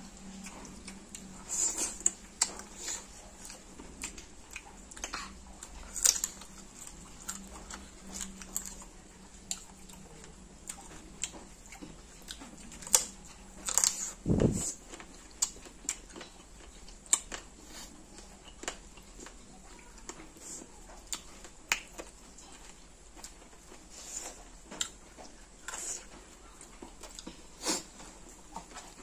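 Two people eating rice and chicken curry by hand: irregular wet chewing, lip smacks and sticky clicks. A single dull thump comes about halfway through.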